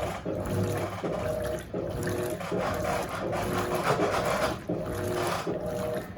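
Electrolux LAC16 top-loading washing machine agitating a full high-water-level load. Its 1/4 hp WEG motor hums in short strokes, starting and stopping about once a second as the agitator reverses, with water and clothes sloshing in the tub.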